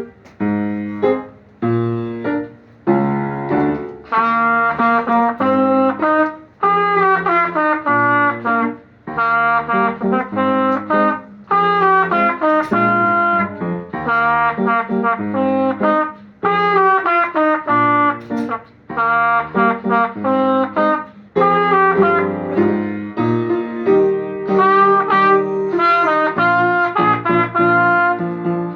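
Solo trumpet playing a melody in phrases with short breaks between them, over piano accompaniment.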